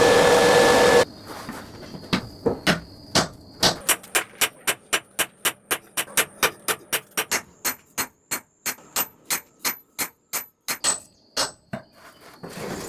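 A loud steady rushing noise cuts off about a second in. Then a hammer strikes metal on an anvil in a steady rhythm, about three to four blows a second, each with a high metallic ring: hand-forging the knife blade.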